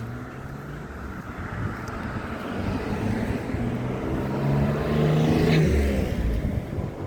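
An engine passing by: its hum grows steadily louder to a peak about five and a half seconds in, then fades away.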